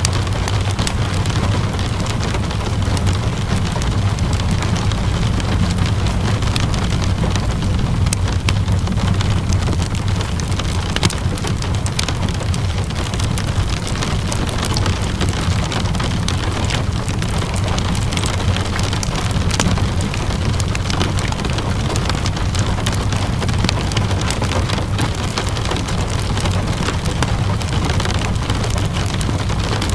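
Steady rain mixed with a crackling wood fire: an even hiss of rain over a low rumble, with frequent small sharp crackles and pops.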